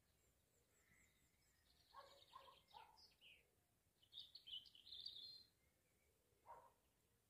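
Faint birds calling: a short high trill about two seconds in, a quick run of high chirps around the middle, and a single lower note near the end.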